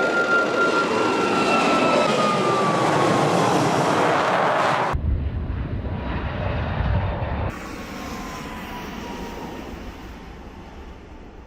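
MC-21-310 airliner's PD-14 turbofan engines passing, loud jet noise with a whine that falls in pitch. About five seconds in the sound cuts abruptly to a different shot, and from about seven and a half seconds in a quieter jet sound carries another falling whine that fades away.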